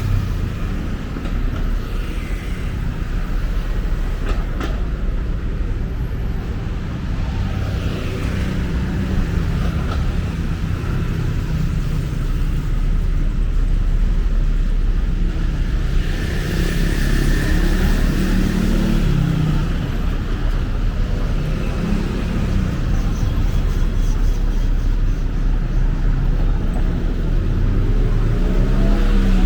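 Busy city street traffic: a steady low rumble of passing cars and other vehicles.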